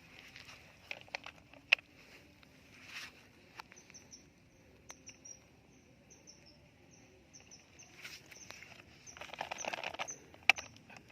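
Outdoor ambience: scattered light clicks and knocks, a run of rapid, high chirps from about four seconds in, and a short rushing noise near the end.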